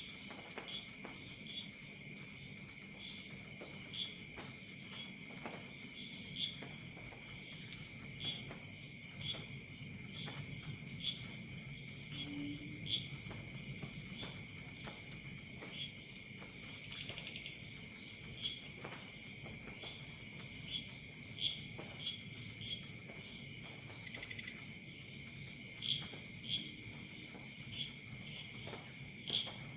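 Crickets and other night insects trilling steadily at two pitches, with short chirps scattered irregularly over the trill, and a faint crackle of a campfire beneath.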